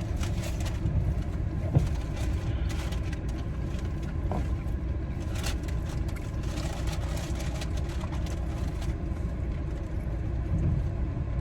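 Steady low rumble of a car idling, heard from inside the cabin, with small clicks and rustles of someone biting into and chewing a fried chicken sandwich; one sharper click about two seconds in.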